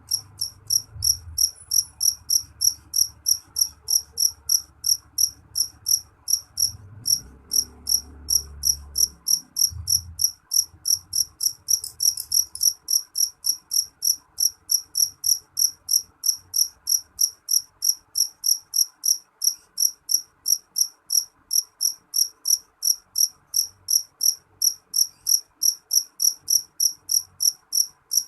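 A cricket chirping in a steady, even rhythm of about two to three high-pitched chirps a second. A faint low rumble sits underneath for the first ten seconds or so.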